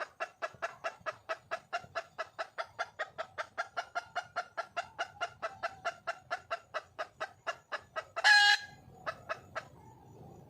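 Red junglefowl hen calling to attract a male: a fast, even series of clucks, about six a second, broken a little after eight seconds in by one much louder, harsher call, then a few more clucks before it stops.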